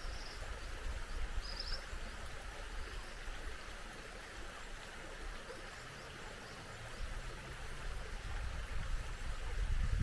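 Small stream flowing steadily, with two brief high bird chirps in the first two seconds. A low rumble builds near the end.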